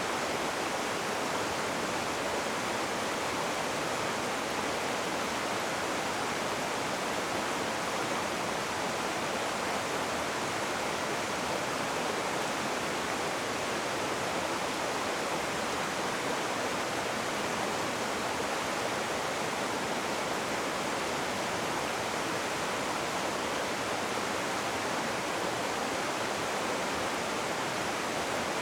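Rushing river water, a steady unbroken roar of whitewater with no changes in level.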